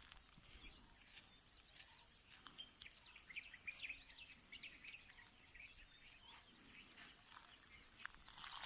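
Faint woodland ambience: many birds twittering in short, quick chirps over a steady, high-pitched insect drone.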